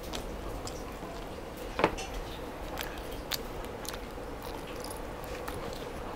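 A person eating a chicken wing: chewing and biting with scattered wet mouth clicks and smacks, one louder click about two seconds in.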